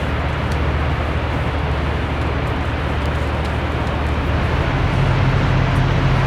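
A running engine's steady low hum under a broad rushing noise, shifting to a slightly higher, louder hum about four and a half seconds in.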